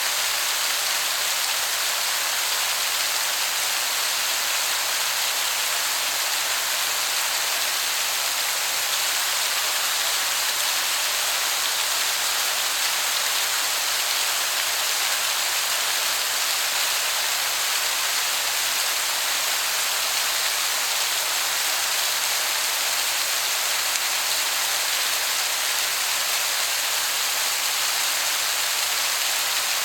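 Waterfall water falling and splashing in a steady, unbroken rush, heard from a spot where it sounds like heavy rain.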